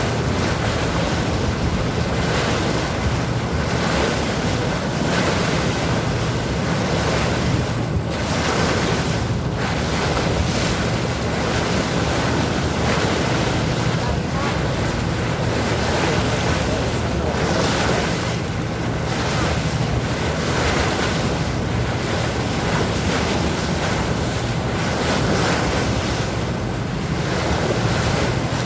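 Sea water rushing and waves splashing, with wind buffeting the microphone, over the steady low drone of a boat's engine.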